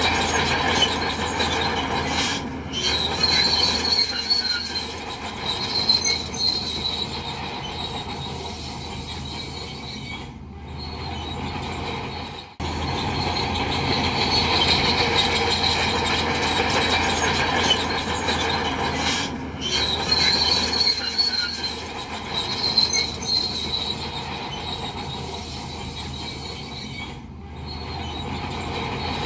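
Bulldozer working, its diesel engine running steadily while the steel tracks squeal and clank, the squeals coming and going in stretches of several seconds.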